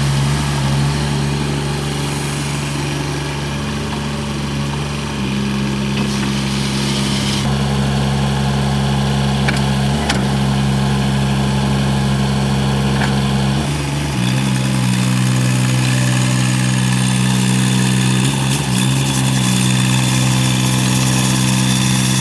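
Mini excavator's small diesel engine running steadily, its tone shifting in steps a few times as the engine speed changes.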